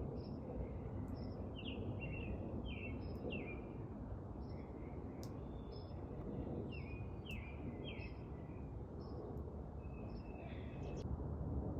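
Small birds chirping, short falling chirps repeated every second or so, over a steady low rumble.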